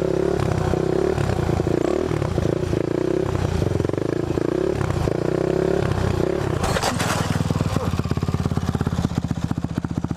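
Single-cylinder dirt bike engine revving up and down, with a brief clatter about seven seconds in, then settling into a steady, even idle.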